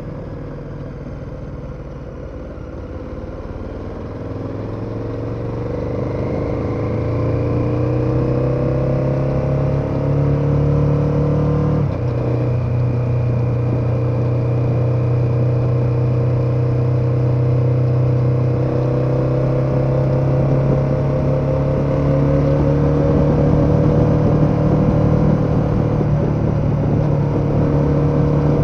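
KTM 1290 Super Adventure's V-twin engine pulling under acceleration: its pitch and loudness climb for about ten seconds, break briefly for an upshift about twelve seconds in, then run on steadily, creeping up in pitch toward the end.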